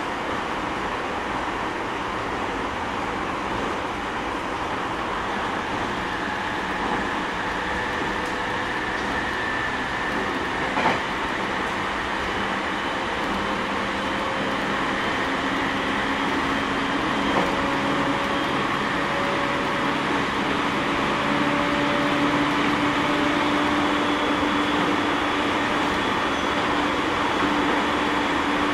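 Onboard running sound of a JR 209 series 500 subseries electric train with Mitsubishi GTO VVVF traction equipment: a steady rumble of wheels on rail with faint humming motor tones that drift slowly in pitch, growing a little louder in the second half. A single click is heard about eleven seconds in.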